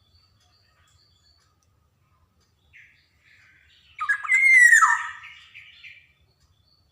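Black-naped oriole calling: a short note near the middle, then about four seconds in a loud call of quick, falling notes, harsh and rich in overtones, dying away over about two seconds.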